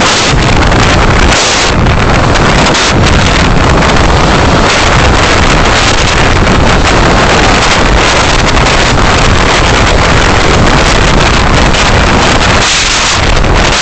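Loud, continuous rush of wind and road noise on a moving vehicle's dashcam microphone, with crackles throughout.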